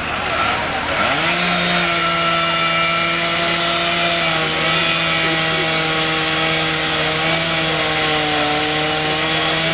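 Chainsaw revving up about a second in, then held at high, steady speed while cutting wood.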